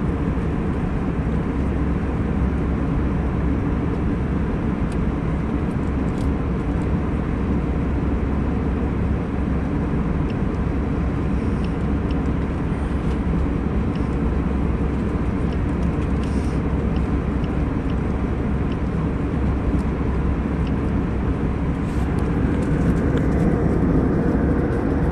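Steady cabin noise of an airliner in flight: the even rush of engines and airflow heard from inside the cabin, getting slightly louder near the end.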